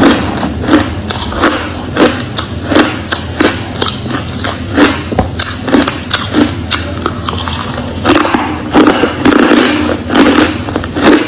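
Close-up crunching of crushed clear ice being chewed: a run of sharp crunches about twice a second, packing closer together and louder about eight seconds in.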